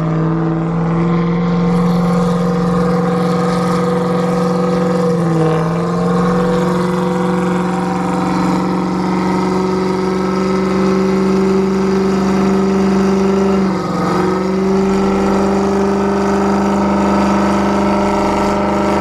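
A car engine held at steady high revs, its pitch creeping slowly upward, dipping briefly twice, about five and a half and fourteen seconds in.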